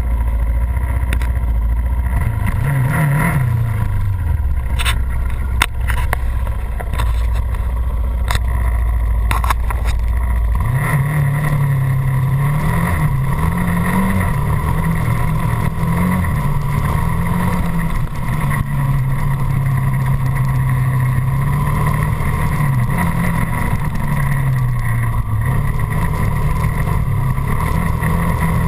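Dirt bike engine idling, blipped once about three seconds in, then revving up about ten seconds in and running at varying speed as the bike is ridden. A few sharp clicks in the first ten seconds.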